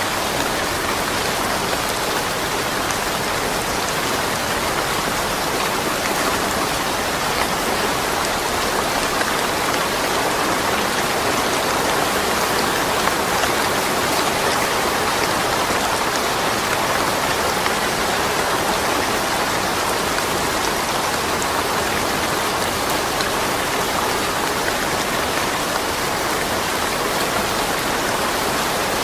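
Steady rain falling and pattering on surfaces, an even hiss of drops without thunder.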